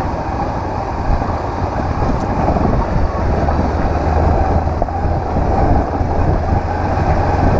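Honda CB500X's parallel-twin engine running steadily at low revs as the motorcycle is ridden uphill, a continuous low rumble.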